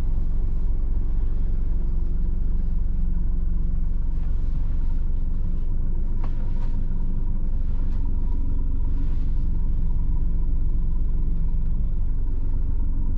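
The 1990 Mitsubishi Fuso bus's 7.5-litre diesel engine idling with a steady low rumble, heard from inside the bus.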